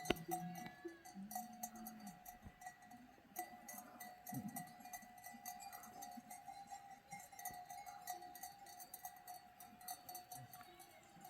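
Neck bells on grazing goats and sheep, clanking faintly and irregularly as the animals move.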